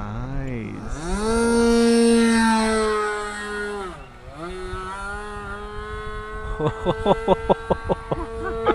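Model airplane engine running at high speed, its note sweeping down and back up and then falling as the plane maneuvers overhead. Near the end, a quick series of crackling pops, several a second, rides over a steadier engine note.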